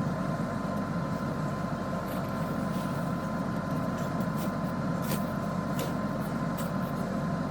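Steady low rumble of a vehicle running, with a faint steady whine and a few light ticks.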